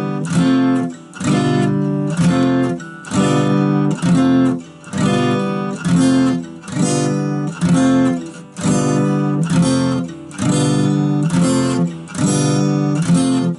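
Acoustic guitar strummed in slow, even strokes, switching back and forth between an F chord and a G7 chord on every stroke.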